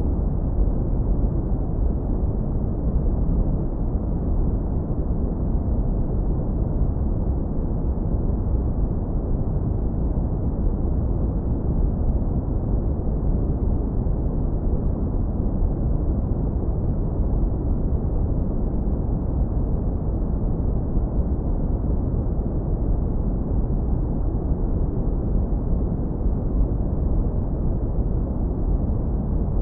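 Steady, deep brown noise, low-pass filtered so that only a warm, smooth low rumble remains, with no high hiss.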